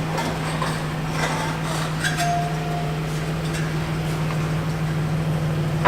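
Pontiac Firebird's 3800 V6 idling steadily as the car is driven off the trailer, with scattered light metallic clinks and a sharp knock near the end.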